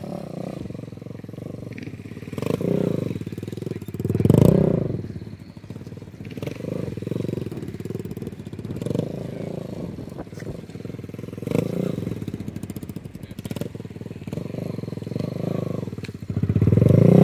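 125 cc single-cylinder mini motorcycle engine being ridden, revving up and easing off again and again, its pitch rising and falling about six times. It grows louder near the end as the bike comes close.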